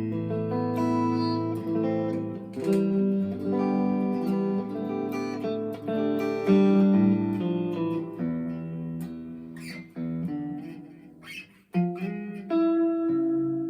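Fender Player II Stratocaster played clean on its neck single-coil pickup through an amp with reverb and delay: ringing chords and single notes, with a brief pause near the end before the playing resumes.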